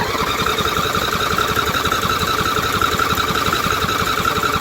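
Briggs & Stratton Intek 25 hp V-twin engine on a Craftsman lawn tractor running steadily just after starting, a rapid even firing beat under a steady high whine. It is running good for now, despite its habit of flooding itself out.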